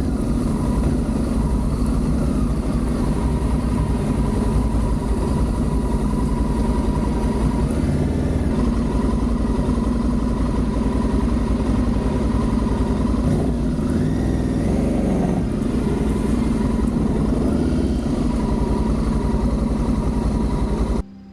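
Adventure motorcycle engine running steadily under way, with a continuous dense rumble and noise; it cuts off abruptly near the end.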